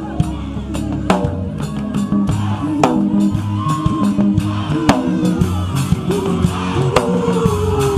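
Live worship band music: a drum kit keeps a steady beat, with sharp hits about once a second, over bass and sustained pitched instrument lines.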